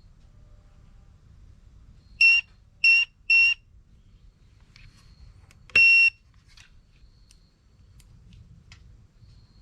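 Electronic buzzer beeping: three short beeps about half a second apart, then one longer beep a couple of seconds later.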